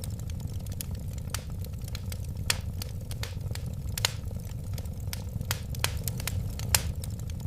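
Wood fire crackling, with irregular sharp pops and snaps over a steady low rumble of flames. Three louder pops stand out, about two and a half, four and almost seven seconds in.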